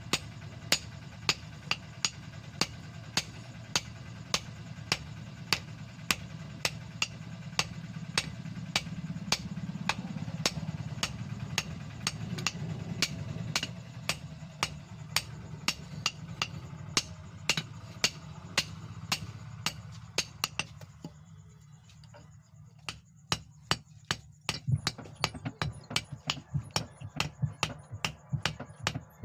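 Hand hammer striking leaf-spring steel on an anvil, sharp ringing blows about two a second. The blows pause about three quarters of the way through, then resume quicker and more irregular.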